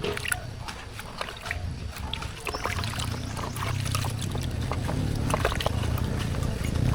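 An engine running with a low, steady hum that grows louder about two and a half seconds in, over scattered clicks and knocks.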